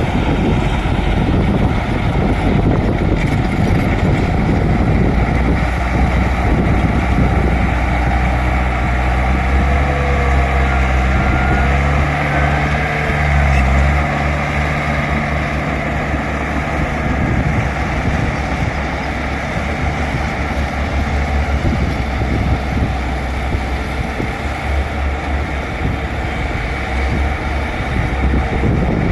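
Bulldozer's diesel engine running steadily with a deep rumble, its note turning smoother and more tuneful for several seconds partway through before going rough again.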